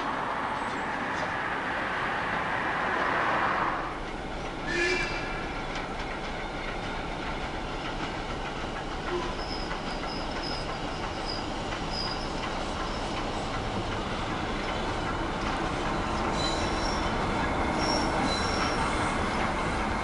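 Train running slowly in over pointwork, its wheels giving short high-pitched squeals on the curves, twice, with a low rumble that grows as it draws nearer near the end.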